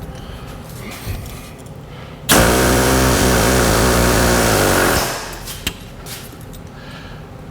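A power tool runs hard in one burst of nearly three seconds, starting abruptly a couple of seconds in and winding down. A few light knocks of metal work come before and after it.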